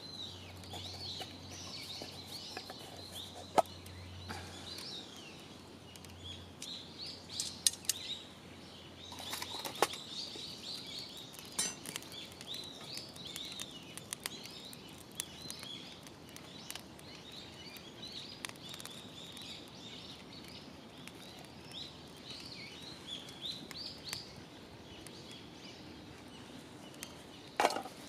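Wild birds chirping and calling continuously in short high notes, with a few scattered sharp clicks.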